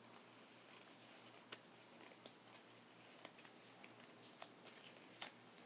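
Near silence with faint, scattered ticks and light rustles of Pokémon trading cards being handled, with a low steady hum beneath.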